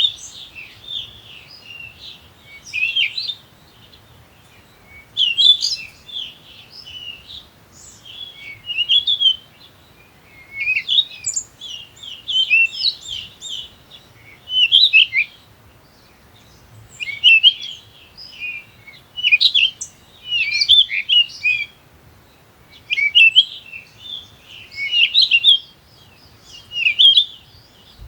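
A small bird chirping and twittering in short bursts of quick, high, sliding notes, a new burst every second or two.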